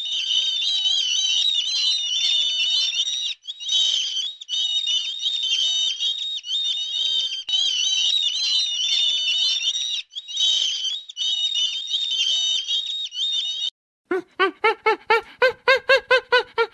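Small bird singing a continuous high, warbling song in long phrases broken by brief pauses. Near the end it gives way to a different, lower-pitched call repeated rapidly, about six times a second.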